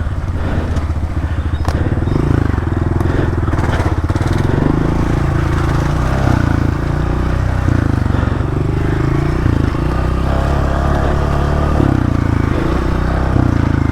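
Honda CRF125F dirt bike's single-cylinder four-stroke engine running under way on a trail, the engine note rising and falling several times with throttle and gear changes. A few sharp clicks and knocks in the first few seconds.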